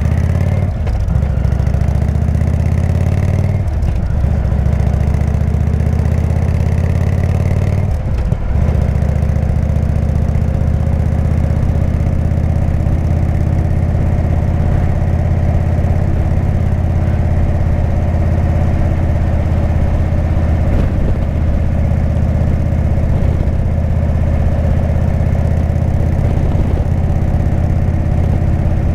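Indian V-twin motorcycle engine running through a Jekill & Hyde exhaust. The sound breaks briefly about one, four and eight seconds in, then settles into a steady, unchanging drone.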